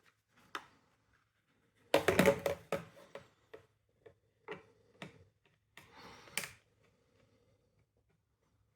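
Clicks, knocks and a brief rattling clatter from the plastic housing and parts of a window vacuum cleaner being handled and taken apart. The loudest clatter comes about two seconds in, and there is a short scrape around six seconds.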